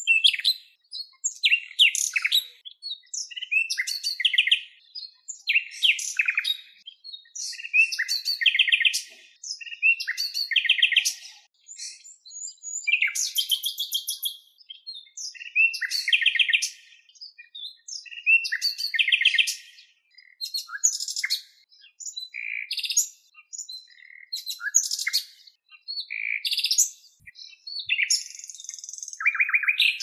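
Birds calling: a steady run of high chirps and short, fast trills, many calls following one another without a break.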